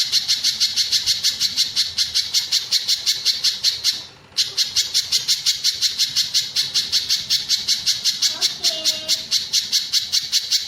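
Streaked spiderhunter (pijantung gunung) calling: a long, fast run of sharp, evenly repeated notes, about six a second, with one short break about four seconds in.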